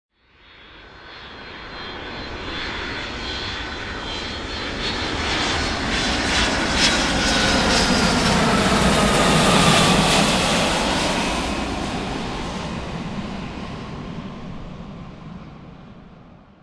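Large fixed-wing aircraft's engines as it flies past: the noise builds up, peaks about ten seconds in and fades away, with a high steady whine and a whine that falls in pitch as it goes by.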